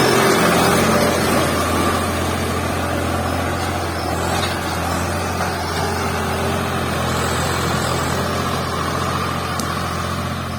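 Swaraj 735 XT tractor's three-cylinder diesel engine running steadily while ploughing a field.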